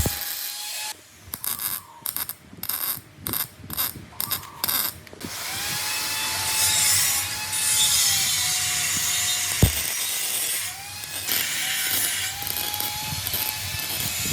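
Workshop tool noise: a whine that wavers in pitch over a steady hiss, broken about a second in by a run of about eight quick rasping strokes, roughly two a second.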